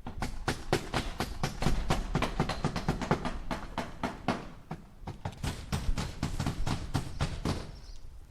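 Hammer striking a nail into wood in a rapid, even run of blows, about five a second, which stops shortly before the end.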